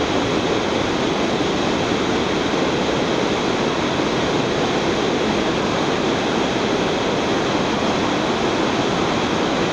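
Waterfall: the steady, even rush of falling water, with no change in level.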